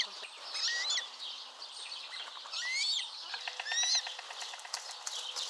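Eurasian coots calling: short, sharp, rising-then-falling notes repeated about once a second. A rapid run of clicking ticks comes a little past the middle.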